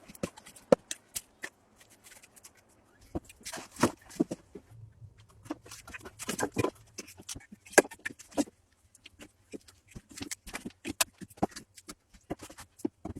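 Irregular clicks, knocks and rustles of hands handling objects, in short busy runs with brief pauses between them.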